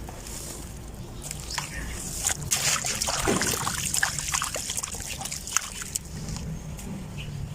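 Dry sand-cement clumps crumbling: a dense run of crunchy crackles with grains trickling, busiest a few seconds in.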